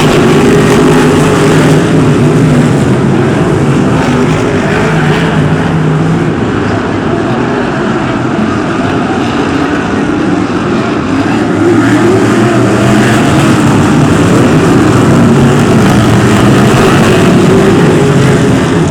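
BriSCA F1 stock cars racing as a pack, their big V8 engines running loud and steady, the pitch wavering as the cars accelerate and lift around the oval.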